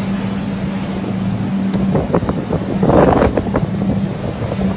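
Steady low hum of an engine running, with wind buffeting the microphone in a rough gust about two seconds in that briefly covers the hum.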